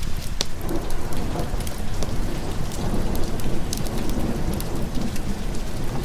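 Steady heavy rain with low rolling thunder that swells in about half a second in and rumbles on, with scattered sharp ticks over the top.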